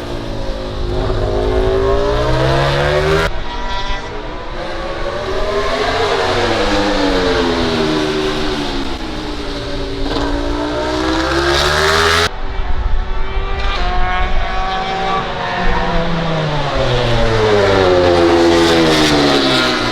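MotoGP race bikes' 1000 cc four-cylinder engines at full racing revs, several passes with the pitch rising and falling as they accelerate, shift and go by. The sound changes abruptly at about 3 seconds and again at about 12 seconds.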